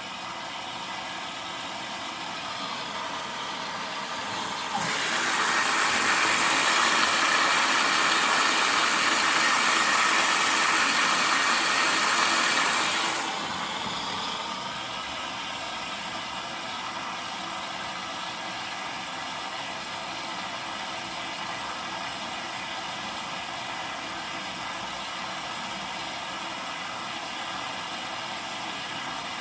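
Zanussi washing machine running a 90 °C boil wash, a steady motor hum under it. About five seconds in, a louder rushing hiss starts suddenly, holds for about eight seconds, then cuts off.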